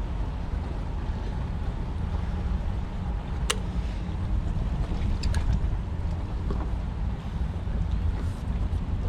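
Steady wind rumble on the microphone over water moving around a kayak, with a sharp click about three and a half seconds in and a couple of fainter clicks around five seconds in.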